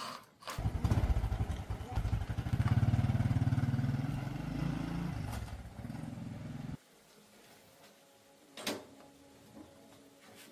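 Small Honda motorcycle engine firing up and running with a fast, even beat, rising in level for a few seconds, then easing off and cutting off abruptly after about six seconds. A single sharp click near the end.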